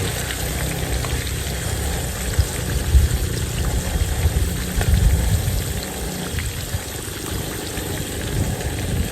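Tempe frying in hot oil in a pan, a steady sizzle and crackle. Underneath runs a low rumble, with a couple of dull knocks about three and five seconds in.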